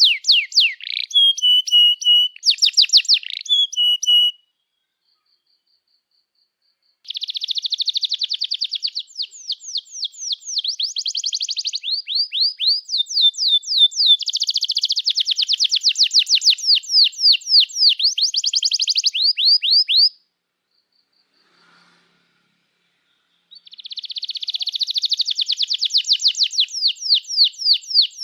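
Domestic canary singing a long song of fast, high repeated chirps and trills, in three stretches broken by two pauses of a few seconds.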